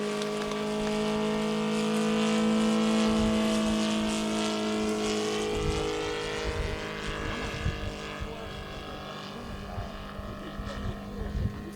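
Saito FG-84R3 three-cylinder radial petrol engine of a large-scale RC Zero in flight, a steady drone that swells about two to three seconds in and fades after about six seconds. Wind buffets the microphone in the second half.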